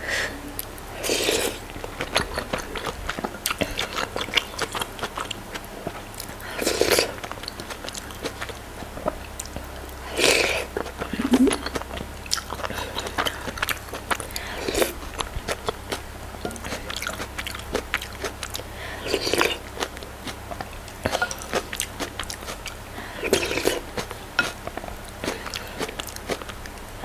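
Close-miked chewing and biting of soft goat soup meat and vegetables: a steady run of small wet mouth clicks and smacks, with a louder bite or mouth sound every few seconds.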